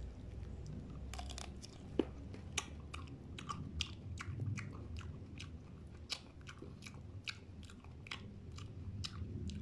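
A person chewing bites of prickly pear cactus pad (nopal): a steady run of small crisp crunches and mouth clicks, a few each second.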